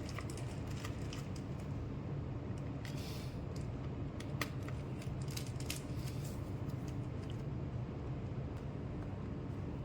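Small scattered clicks and scrapes of a star-bit screwdriver working the screws out of a Jio Phone's plastic back housing, over a steady low hum.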